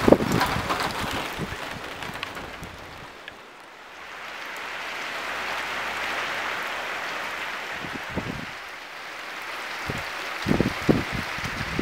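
Rain falling steadily, with a short lull a few seconds in, and low thumps on the microphone at the start and again in the last few seconds.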